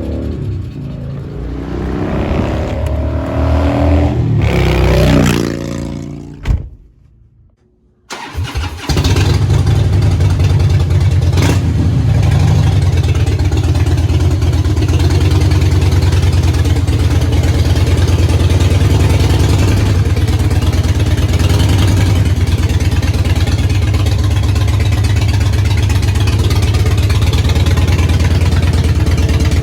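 A vehicle engine pulling away, its pitch rising through the gears for about six seconds. It breaks off, and after a short gap an engine runs steadily and loudly on a low, even drone.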